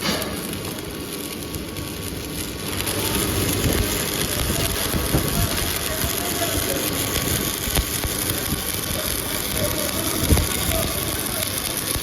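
Steady workshop machinery noise that gets louder about three seconds in, with a few scattered knocks.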